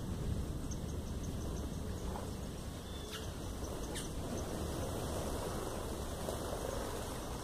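A few faint, brief bird chirps over a steady low background rumble.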